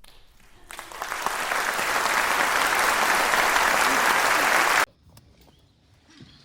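Food sizzling in hot oil in a pan, a loud steady frying hiss that builds up over about a second and cuts off suddenly near the end.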